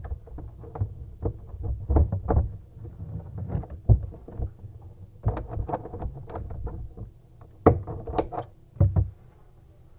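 Irregular knocks, clunks and handling noise of hands and tools at work on a faucet installation, with several sharper knocks spread through and a low rumble underneath.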